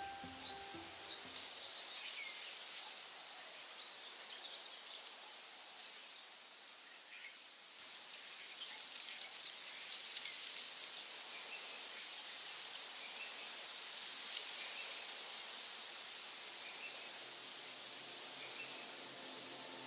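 Outdoor nature ambience: a steady high-pitched insect trill, like crickets, with scattered small bird chirps. About eight seconds in it changes abruptly to a broader, even high hiss, with the chirps going on.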